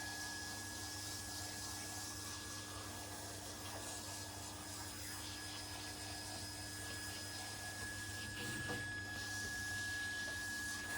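Steady hiss of a shower spray running water during a dog's bath, over a steady high-pitched tone and low hum from equipment.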